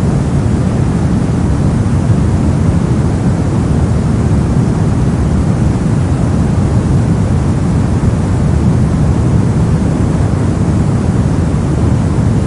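Steady soft noise of the kind played for sleep and focus: an even, unchanging rush whose weight lies in the low end, so it sounds deep and muffled rather than hissy.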